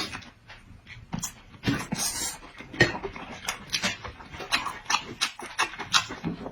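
Wet chewing and lip-smacking while eating a lamb-filled steamed bun, an irregular run of short smacks and clicks.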